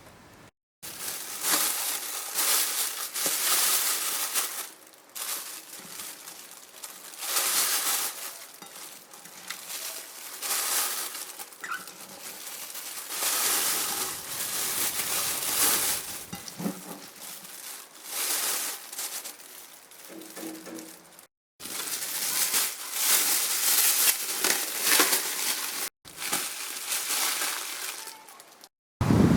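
Repeated bursts of crinkling, rustling handling noise, stopping abruptly several times.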